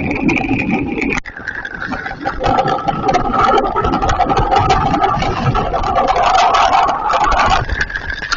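Heavy hail and rain pounding down: a dense, loud clatter of many hailstone impacts, with a steady hum running underneath.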